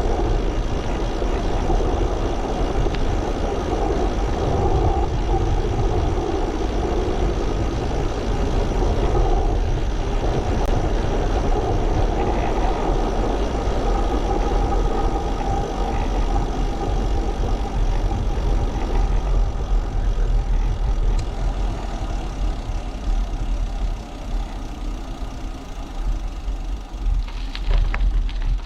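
Wind buffeting a GoPro camera's microphone on a moving bicycle: a steady rumbling noise that eases a little toward the end.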